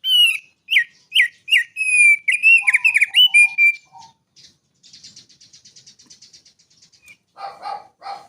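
Songbird singing: a quick series of loud, clear whistled notes, each sliding down, then a fast, fainter, high buzzy trill, and a few harsher, lower calls near the end.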